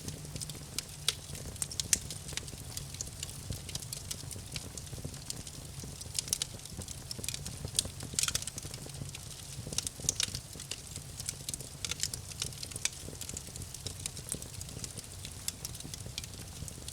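Campfire burning, with irregular sharp crackles and pops, a few louder snaps, over a low steady rumble of the flames.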